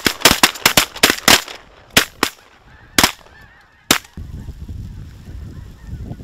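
A volley of about a dozen shotgun shots from several hunters firing together. The shots come fast at first, then thin to single shots, the last about four seconds in. After that there is a low rumble of wind on the microphone.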